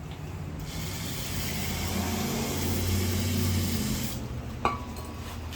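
Pressurised spray hissing steadily for about three and a half seconds into the generator's carburetor as it is cleaned out, then stopping, over a low steady hum. One short click near the end.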